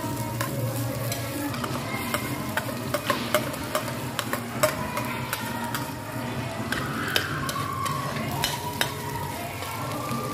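Chopped onion and garlic sizzling in a wok, with a metal spoon scraping food off a plate and stirring it in the pan, making sharp clinks against the metal.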